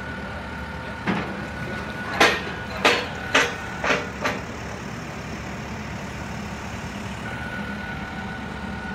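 Truck engine running steadily under load while pulling a sunk truck up the boat ramp on a tow line, with a thin steady whine. Five or six sharp knocks or cracks come between about one and four and a half seconds in.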